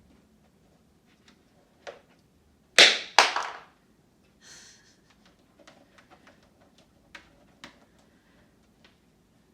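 Two loud, sharp knocks less than half a second apart, among scattered light clicks and taps.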